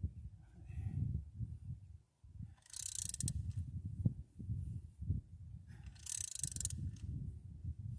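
Ratchet wrench clicking in two short runs about three seconds apart, tightening the rocker arm adjusting nuts on a Ford Fairlane V8, over a low rumble.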